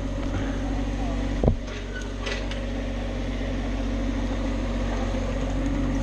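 An engine running steadily at idle, with one sharp knock about a second and a half in.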